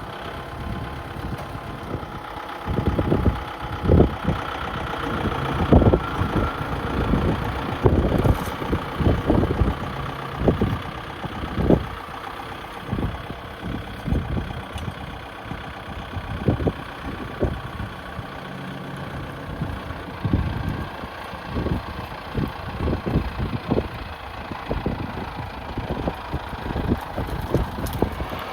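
Kubota tractor's diesel engine running steadily, with many irregular clunks and knocks over it.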